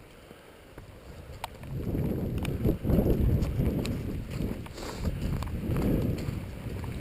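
Strong wind gusting across the microphone: a low buffeting that starts about a second and a half in and swells and fades with each gust.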